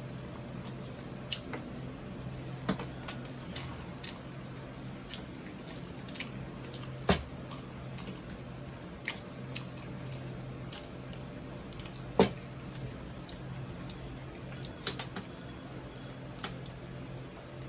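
A person eating with mouth sounds and scattered soft clicks throughout, with two sharper clicks about seven and twelve seconds in. A steady low hum runs underneath.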